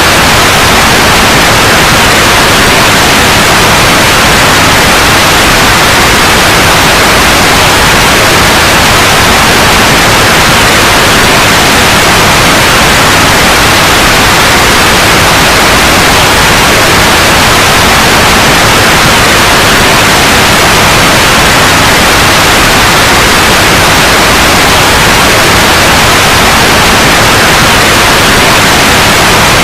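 Loud, steady white noise, an even hiss across all pitches that does not change.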